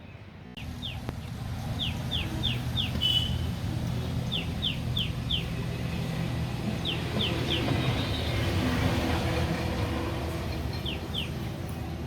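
A vehicle running with a low rumble that starts about half a second in, swells and then eases off. Over it a bird calls every couple of seconds, in short runs of three or four quick falling notes.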